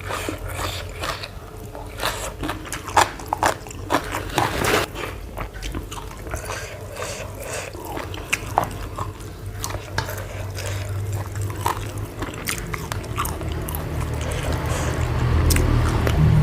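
Close-miked chewing and biting of food, with repeated short crunches and wet mouth sounds. A steady low sound grows louder near the end.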